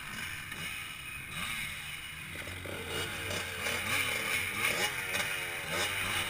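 Motocross bike engine revving up and down with throttle changes over a steady rush of wind, the revving growing busier about two and a half seconds in.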